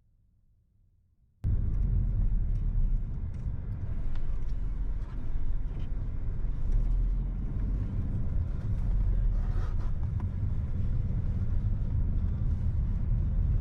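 Near silence, then about a second and a half in a car's steady low rumble of engine and tyres on the road cuts in abruptly and runs on.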